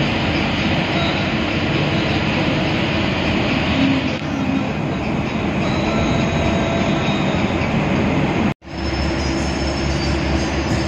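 Running noise of an air-conditioned bus heard from inside the cabin: a steady engine and road rumble. It cuts out completely for an instant about two-thirds of the way through, then comes back with a steadier, deeper hum.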